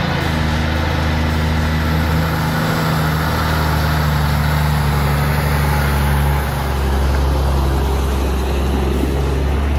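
Engine of a loaded logging truck running steadily, a low even drone with little change in pitch and a brief dip about six and a half seconds in.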